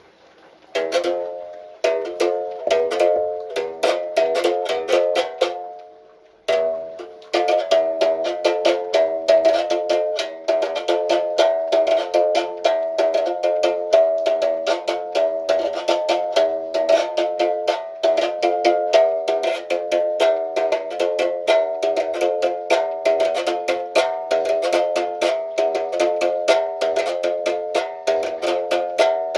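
Berimbau struck with a stick in a fast, steady rhythm of pitched twangs that alternate between a few notes. It starts about a second in, breaks off briefly about five seconds in, and starts again about a second later.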